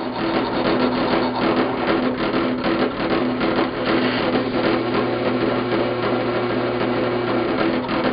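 A power tool's electric motor running steadily, with a dense, rapid scraping texture over a low hum.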